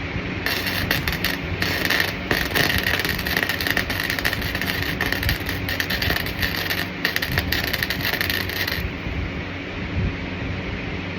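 Welding arc crackling steadily with a dense fizz of fine pops; it starts about half a second in and cuts off near the end. A low steady rumble runs underneath.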